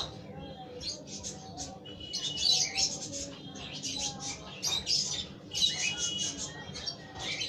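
Baby lutino lovebird chick begging while being hand-fed from a syringe: a rapid run of short, high-pitched squeaky chirps, several a second.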